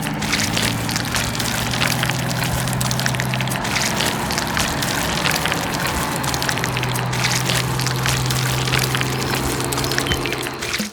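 A construction-vehicle engine running with a steady low hum while loose material pours out with a dense rushing, crackling noise. The sound breaks off abruptly at the very end.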